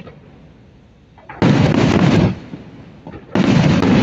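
Aerial fireworks bursting in two loud volleys of booms and crackle. The first comes about a second and a half in and fades after about a second; the second starts near the end.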